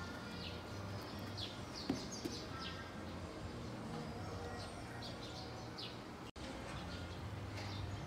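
Small birds chirping repeatedly, many short high chirps, over a steady low hum in a large animal barn. The sound cuts out for an instant a little after six seconds in.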